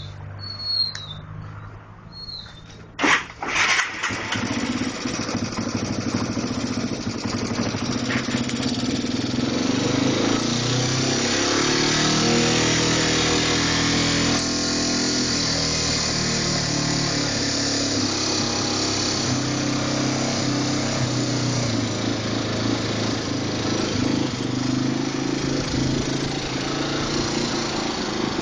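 2002 Yamaha TT-R225's air-cooled single-cylinder four-stroke engine started on its electric starter. It catches about three seconds in and keeps running, with the light clicking that the owner puts down to a timing chain that is out of time.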